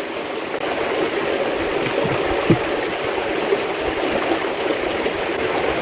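Water running steadily, a continuous rushing hiss like flowing water into or out of a fishing pond.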